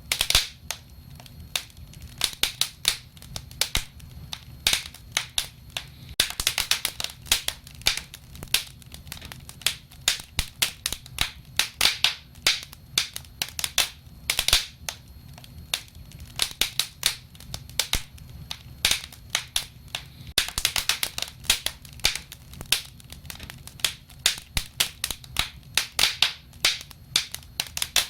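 Wood fire crackling: many sharp pops and snaps at irregular intervals, thicker in some stretches, over a low steady rumble of the flames.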